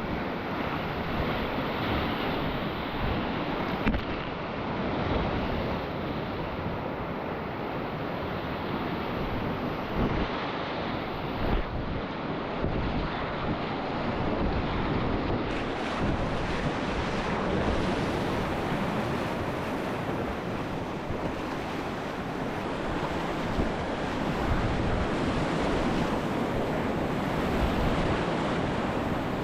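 Whitewater of a river's class II rapids rushing steadily around a kayak, with a couple of brief knocks.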